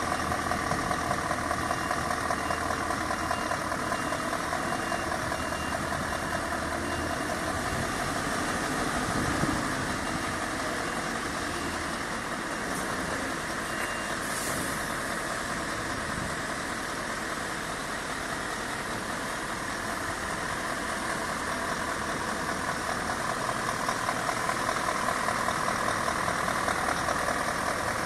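Scania S650's 16-litre V8 diesel running at low revs during a slow manoeuvre, a little louder near the end. A short hiss of air about halfway through.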